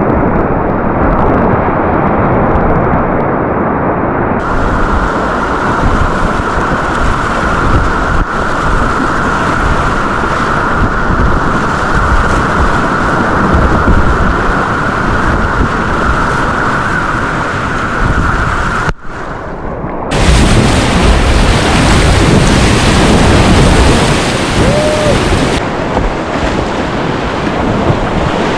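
Loud, steady rush of Class III whitewater rapids, recorded close to the water. The sound drops out briefly about two-thirds of the way in, then comes back just as loud.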